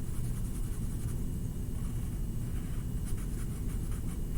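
Colouring tool scribbling back and forth on paper in quick short strokes, over a steady low hum.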